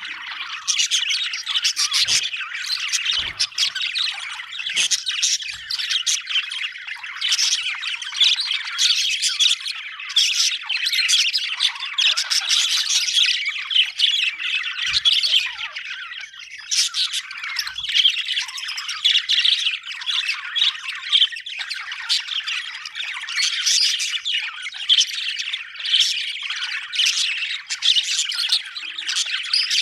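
Budgerigars chirping and chattering without a break, many short high calls overlapping one another.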